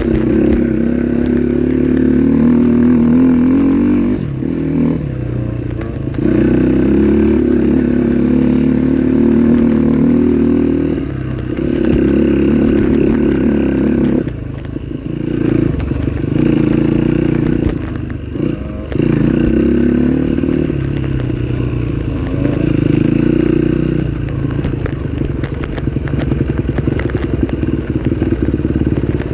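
Dirt bike engine running under load while being ridden, the note rising and falling as the throttle is opened and shut, with several short drops in revs as the rider backs off.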